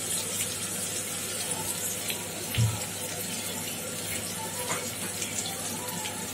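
Chopped onions, green chillies and curry leaves frying in oil in an iron kadai: a steady sizzle, with one short low thump about two and a half seconds in.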